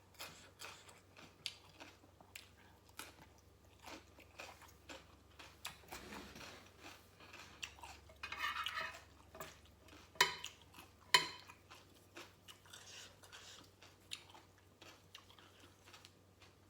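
Eating at the table: utensils clinking and scraping on a plate and dishes, with chewing of crunchy papaya salad. Two sharper, louder clinks come a little past the middle.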